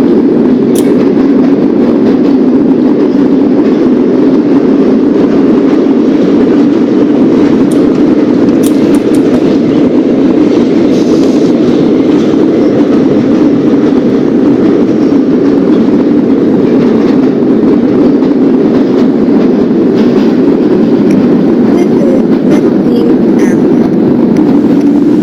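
Subway garbage train running along the track: a loud, steady rumble with a few faint clicks.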